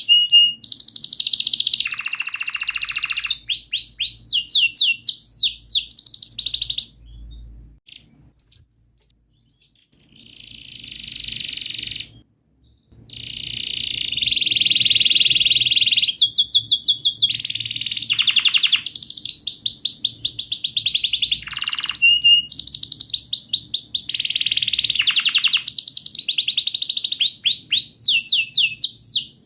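Canary singing a long, vigorous song of rapid trills and rolls, with a pause of several seconds about a quarter of the way in before the trilling resumes.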